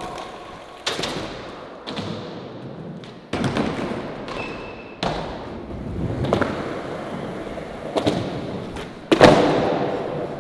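Skateboard attempts: about six sharp clacks and slaps of the board hitting the ground, each followed by a fading rolling hiss from the wheels. The loudest slam comes about nine seconds in.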